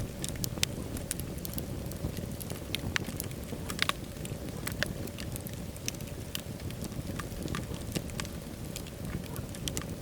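Wood fire burning in a fireplace: a steady low rumble of flames with irregular sharp crackles and pops, a loud pop about four seconds in.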